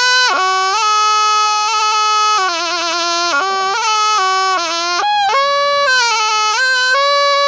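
Thai pī, a reed oboe, playing a melody of held notes joined by slides and bends, with a quick wavering ornament a few seconds in, without a break for breath.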